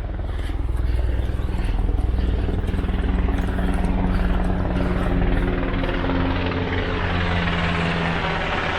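Helicopter flying past overhead, a steady low droning rotor beat that is loudest in the first half and eases slightly toward the end; the hiker takes it for an army helicopter.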